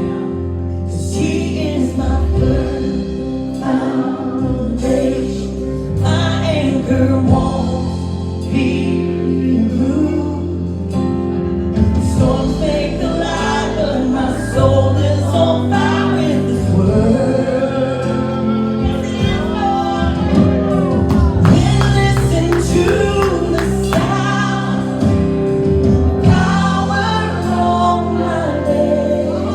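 Gospel worship music: a choir and singers with live band accompaniment.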